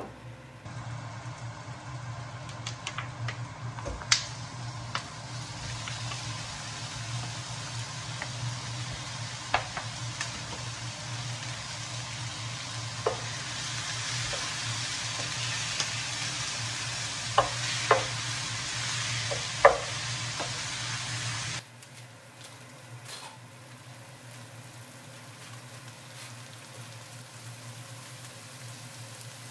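Raw ground meat sizzling in hot oil in a pan while a wooden spoon stirs it, knocking against the pan several times. The sizzle cuts off abruptly about two thirds of the way through, and a quieter steady hiss follows.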